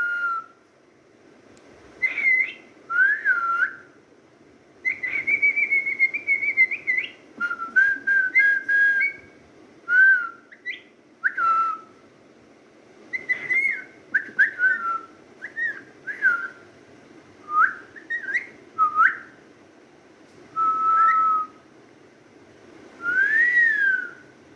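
A series of short whistled phrases, each sliding up and down in pitch, with short pauses between them.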